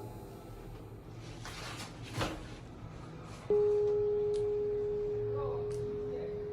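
A single steady pure tone starts suddenly about halfway through and slowly fades, after a short click and over a low background hum.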